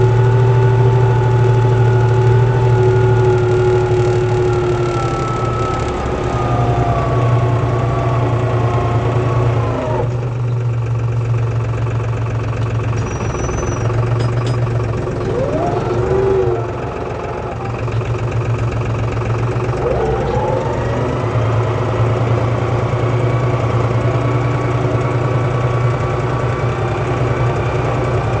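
Diesel tractor engine running steadily while pulling a four-furrow plough. The engine note drops about a third of the way in and rises again twice later on.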